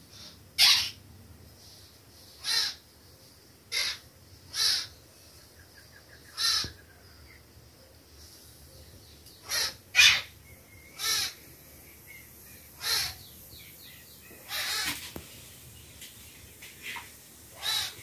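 A bird giving about a dozen short, harsh calls, spaced irregularly one to two seconds apart, with the loudest ones near the start and about halfway through.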